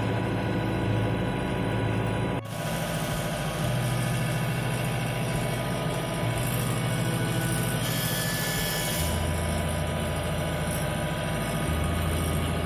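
Mahindra 2638 compact tractor's diesel engine running steadily while it drives the snowblower through snow. About two and a half seconds in there is a sudden break and the sound changes, and the engine note shifts a few times after that.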